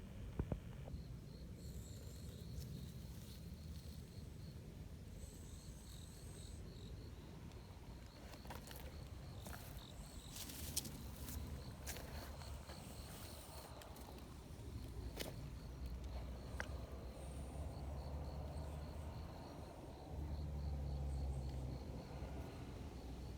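Outdoor ambience of an insect, cricket-like, chirping in a steady high pulsing trill, over a low wind rumble that grows louder near the end, with a few scattered soft clicks.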